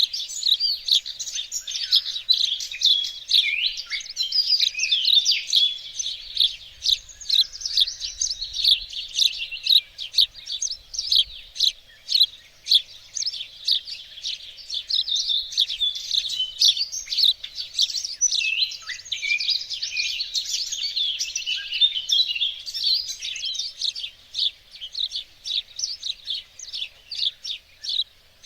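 Several small songbirds chirping and singing at once: a dense, continuous chorus of short, high calls and trills.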